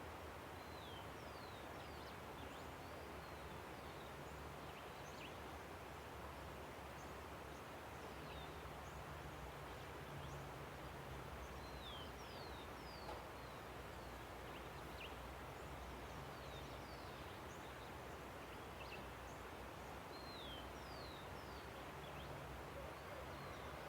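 Steady rushing of a river, with many short bird chirps and whistles scattered over it.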